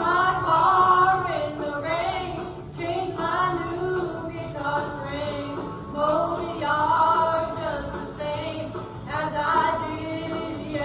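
A woman singing a country song with musical accompaniment, her voice holding long notes.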